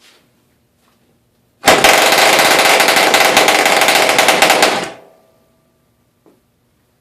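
1938 Clarke Troller tiny two-stroke outboard motor starting and running fast for about three seconds, a loud rapid crackle that starts abruptly, then dies away.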